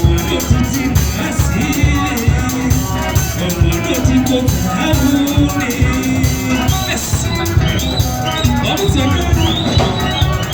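Live band music with a steady drum beat under pitched instrumental lines.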